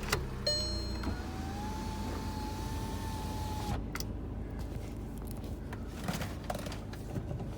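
Volkswagen Passat 2.0 TDI diesel engine idling with a steady low rumble, heard from inside the cabin. A brief electric motor whine rises slightly and holds for about two and a half seconds, then cuts off, followed by a knock.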